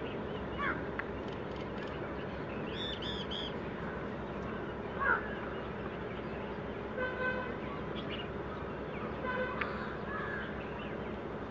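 Birds calling over a steady background hum: a quick three-note call about three seconds in, a sweeping chirp near the middle, and short runs of repeated calls later on.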